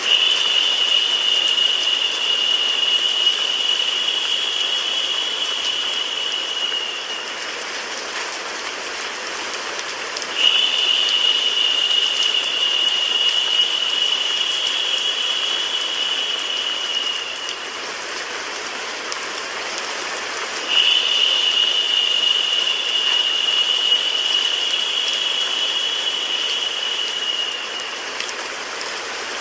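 Recorded rain mixed with white noise: a steady, even hiss. A brighter, higher hiss swells in three times, each lasting about seven seconds, as the sound loops.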